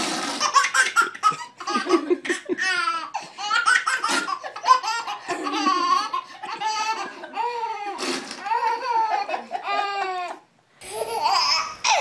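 Baby laughing hard in repeated belly laughs, peal after peal. The laughter stops briefly near the end, then laughing starts again.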